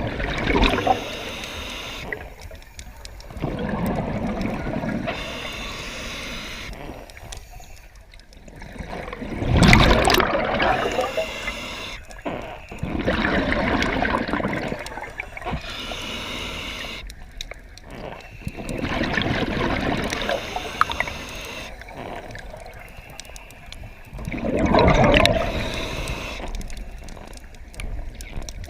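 Water sloshing and gurgling in surges that swell and fade every few seconds, the loudest about ten seconds in.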